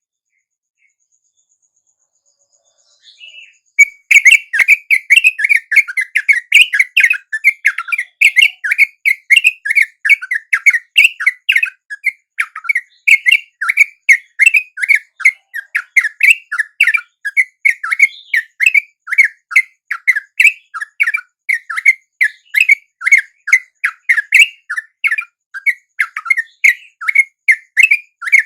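Yellow-vented bulbul (trucuk) lure call: a fast, unbroken chatter of short chirps, several a second, starting about four seconds in after near silence.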